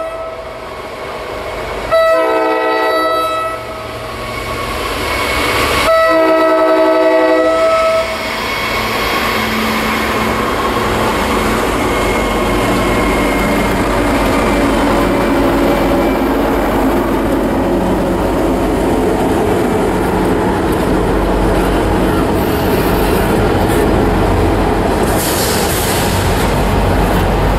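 A CSX freight diesel locomotive blows its multi-chime air horn: a shorter blast about two seconds in and a longer one about six seconds in. Then the locomotive passes close by, followed by the steady rumble and wheel clatter of double-stack intermodal well cars rolling past on the rails.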